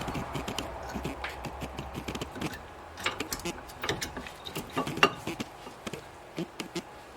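Light metallic clicks and clinks, irregular and scattered, as brake pads and their hardware are handled and fitted into a car's front caliper bracket.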